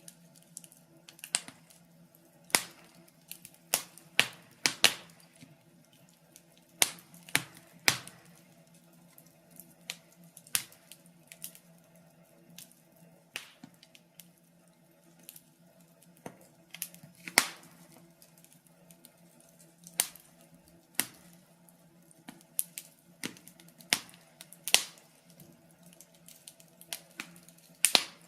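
Wood fire crackling in a fireplace: irregular sharp pops and snaps, a few louder ones standing out, over a faint steady low hum.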